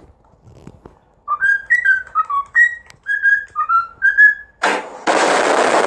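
A whistled tune of about a dozen short, clear notes stepping up and down, then a loud burst of hiss near the end.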